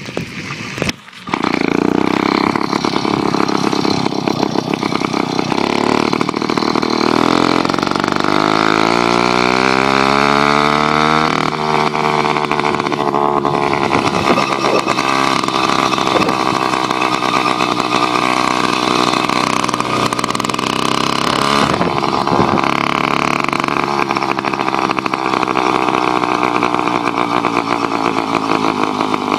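66cc Skyhawk two-stroke motorized-bicycle engine running under way. It cuts out briefly near the start, then climbs in pitch for several seconds, drops suddenly and runs on at a fairly steady pitch.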